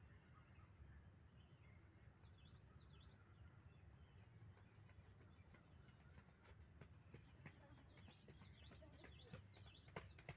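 Faint bird calls, short down-slurred chirps: three about two seconds in, then a run of several more in the second half, over a low steady rumble of background noise.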